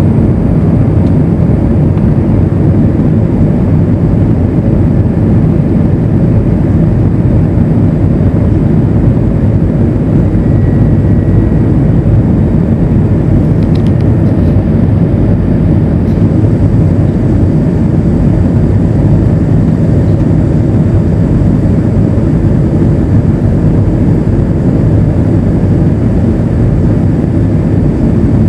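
Steady engine and airflow noise inside the cabin of an Airbus A320 airliner on its descent toward landing, a loud, even, low rumble with no change.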